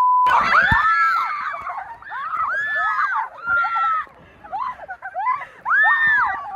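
A steady bleep tone cuts off just after the start. Then voices scream and squeal in a string of high cries that rise and fall in pitch, in bursts with short gaps between them.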